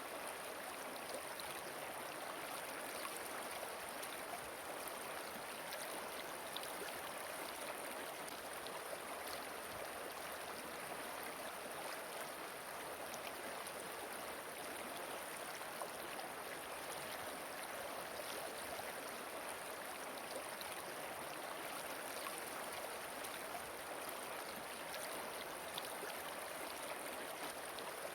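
River water flowing steadily over rocks, a continuous rushing with faint scattered splashes.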